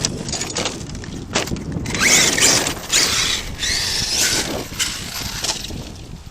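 Arrma Kraton 8S RC truck's brushless motor whining up in pitch under throttle, twice, with its tyres scrabbling over loose dirt.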